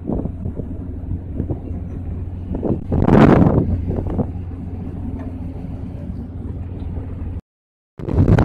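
Small ship's engine droning steadily under wind buffeting the microphone, with a loud rush of wind and sea about three seconds in. The sound cuts out briefly near the end and returns as a louder, gusty rushing.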